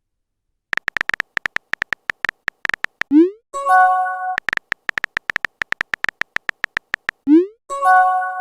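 Phone chat sound effects: a run of quick keyboard-tap clicks, then a short rising whoosh and a bell-like notification chime, as messages are typed and sent. The typing–whoosh–chime cycle happens twice, the chime about halfway and again near the end.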